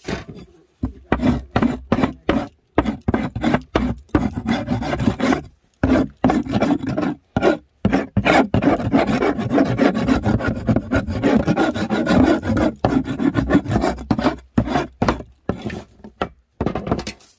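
Quick, repeated rasping strokes against wood, coming in runs broken by brief pauses.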